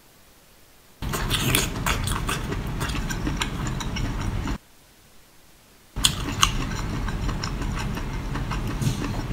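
Close-up eating sounds of a seafood boil: chewing with sharp, crisp clicks. They come in two stretches of a few seconds each, starting about a second in and again about six seconds in, that begin and end abruptly with quiet gaps between.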